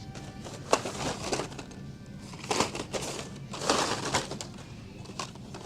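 Blister-packed die-cast toy cars being rummaged through: plastic packs crinkling and clacking against each other in several short bursts.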